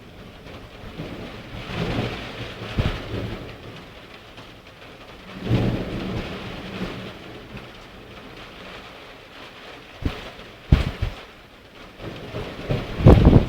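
Thunderstorm: steady rain with thunder rumbling and cracking several times, the sharpest and loudest claps near the end.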